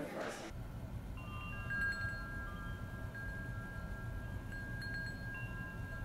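Several clear, high chime tones come in one after another from about a second in and keep ringing, over a low steady hum.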